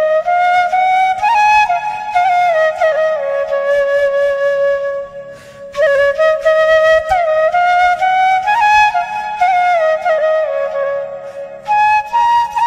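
Solo flute music: one flute playing a slow melody of held and sliding notes, with a short pause about five seconds in.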